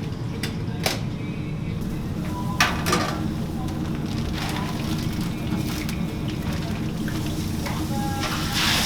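Hot oil sizzling steadily as chicken deep-fries, with a few sharp clatters of utensils.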